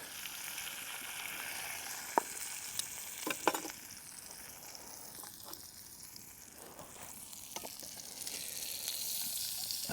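Steak sizzling in butter in a pan over a campfire, with a few sharp pops about two to three and a half seconds in. The sizzle eases off in the middle and grows louder again near the end.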